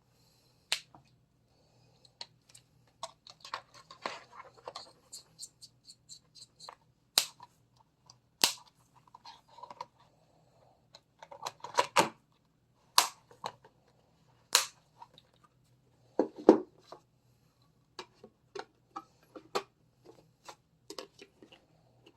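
Hard plastic parts of a 3M Speedglas 100 welding hood clicking and snapping as they are unclipped and fitted, in irregular sharp clicks with light handling rustle between them.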